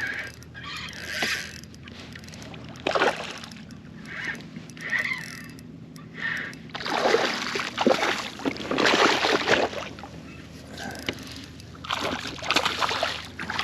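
Irregular splashing and sloshing of water beside a kayak as a hooked snook thrashes at the surface while being brought in, with the longest, loudest splashing from about seven to ten seconds in.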